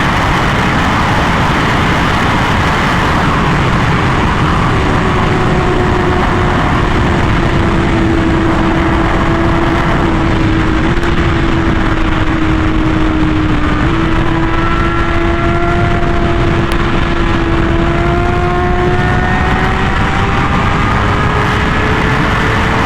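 Honda Fireblade CBR1000RR-R SP's inline-four, breathing through a titanium SC Project exhaust, running at a steady high cruising speed under heavy wind noise on the microphone. The engine note holds nearly steady, then climbs gradually over the last few seconds as the bike gathers speed.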